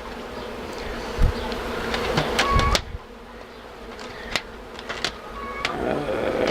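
Honeybees from a large colony buzzing steadily, with scattered clicks, a few short squeaks and a low thump about a second in from the comb being cut out and handled. The buzzing gets quieter about halfway through.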